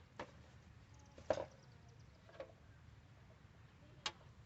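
A few scattered light knocks and clicks, four in all, the loudest about a second and a half in, over a faint low background hum.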